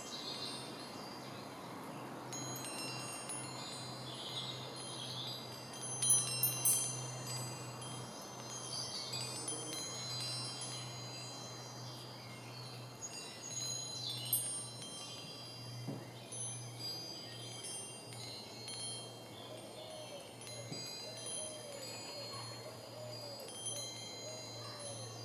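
Small wind chime with six solid silver-alloy chime rods tinkling, high clear notes ringing and overlapping, with flurries of strikes about six seconds in and again around fourteen seconds.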